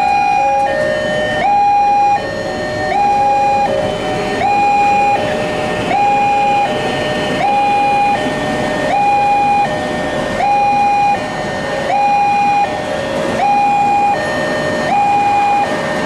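Electronic railway level-crossing alarm sounding its two-tone warning, a higher and a lower tone alternating about every three-quarters of a second, while the barrier is down for a passing train.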